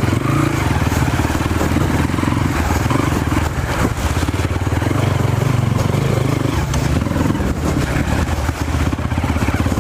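Trail motorcycle engine running steadily under way, its revs holding fairly even with small dips.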